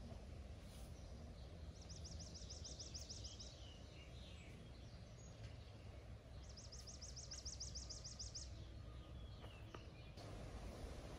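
A songbird singing two trills of rapid, evenly repeated high notes, about eight a second. Each trill lasts about two seconds, and they come a few seconds apart over faint outdoor background noise.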